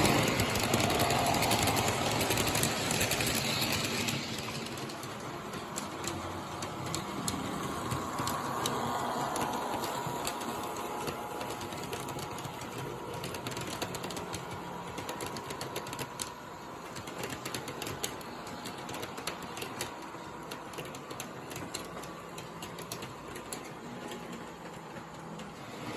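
Model U36B diesel locomotive running on its track pulling freight cars: a steady electric-motor whir with many quick clicks as the wheels cross the rail joints. It is louder for the first few seconds, then softer.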